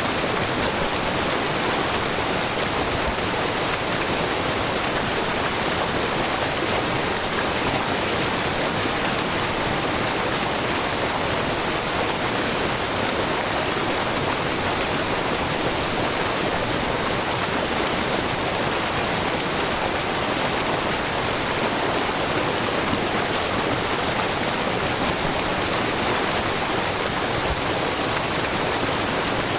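Wide, low waterfall of many thin streams of spring water pouring down a rock face, a steady, unbroken rush of falling and splashing water.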